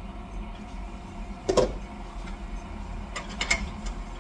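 Kitchen cooking sounds: a utensil knocks once about a second and a half in, then a few light clicks follow, over a steady low hum.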